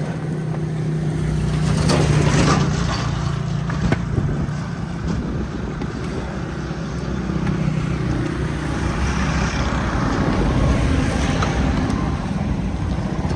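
A motor engine running with a steady low hum that swells about two seconds in, fades, then builds again later.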